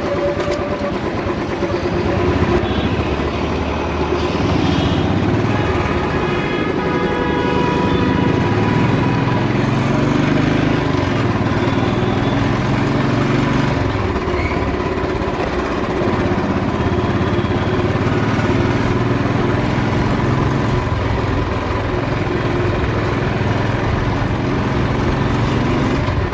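Royal Enfield motorcycle engine running under way. Its note rises and falls in steps as the bike changes speed.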